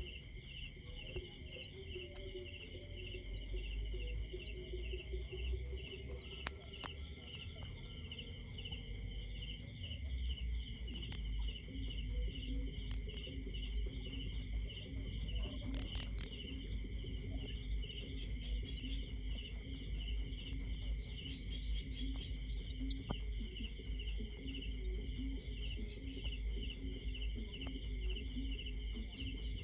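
Cricket chirping loudly in a fast, even rhythm of high-pitched pulses, with one brief break a little past halfway.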